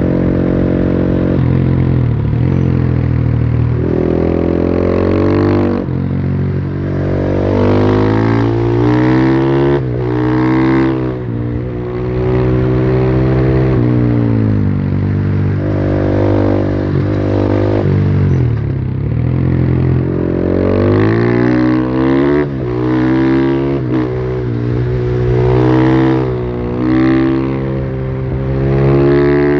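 Husqvarna FE501 supermoto's single-cylinder four-stroke engine on its stock exhaust, ridden hard. It is held steady at first, then repeatedly revs up and drops in pitch as it shifts through the gears and backs off for corners. Near the middle it falls to a low rev and climbs again.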